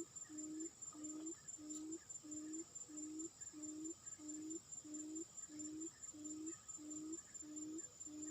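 A bird's short, low hooting note repeated very evenly, about three notes every two seconds, over a faint steady high-pitched whine.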